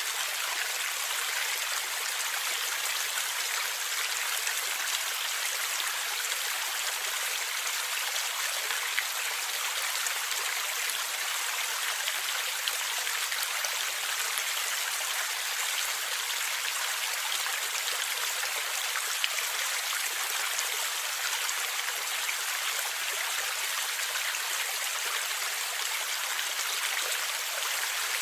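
A stream flowing and gurgling steadily: an even splashing hiss of running water, high and bright with little low rumble.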